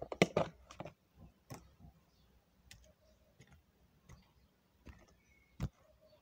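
Light clicks and taps of small hard objects being handled: a quick cluster in the first second, then single clicks about once a second.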